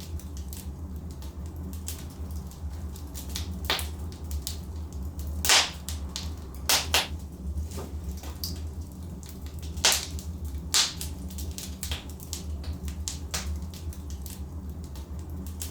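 Logs burning in a fireplace, crackling and popping over a steady low rumble, with a few louder sharp pops in the middle.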